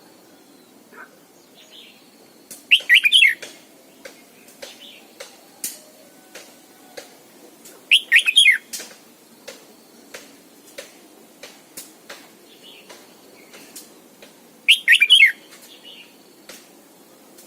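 Red-whiskered bulbul singing three short loud phrases of quick falling notes, about five to six seconds apart, with light clicks in between.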